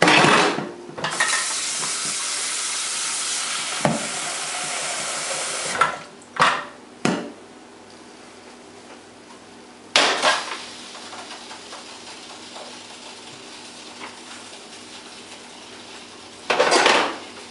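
Kitchen pots, pans and dishes clattering and knocking as they are handled. A steady hiss runs for about five seconds and then cuts off, followed by a few sharp knocks, another clatter about ten seconds in, and a double clatter near the end.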